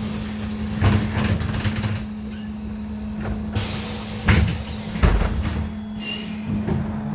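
Cabin of a BKM-32102 trolleybus, with a steady electrical hum and body rattles and knocks. About three and a half seconds in comes a loud hiss of released air from the pneumatic system, and a shorter hiss follows near the end.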